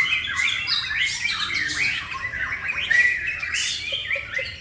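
Male white-rumped shama singing a rapid, unbroken run of varied whistled and chattering notes.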